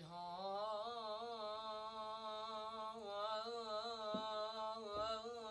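A man singing one long held note whose pitch wavers and curls in ornaments, with no accompaniment.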